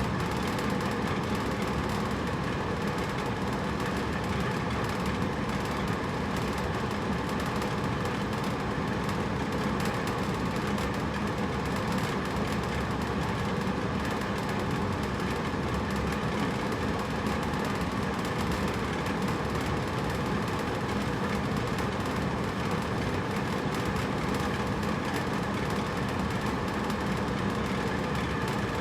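Hotel room air conditioner running steadily: an even whooshing hum of fan and compressor with faint steady tones in it and no changes.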